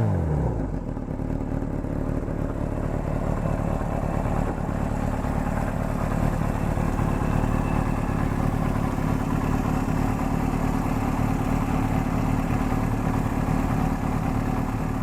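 Kawasaki Z1's air-cooled 903 cc inline-four idling steadily through an NGC aftermarket muffler on 47.5 mm header pipes, just after a rev has died away. A light clatter at idle comes, as the owner later found, from loose bolts on the starter one-way clutch and the generator.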